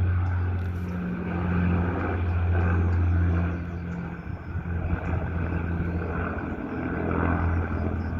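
Old propeller-driven bomber droning steadily overhead. Its low engine hum swells, eases around the middle, and rises again near the end.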